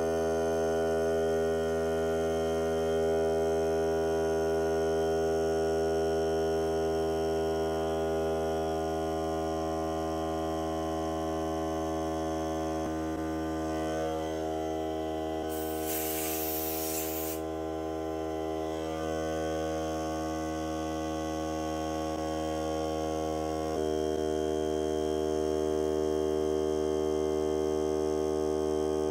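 Hart cordless air compressor running with a steady motor hum. About halfway through, air hisses for a couple of seconds. Later the hum steps up slightly in level.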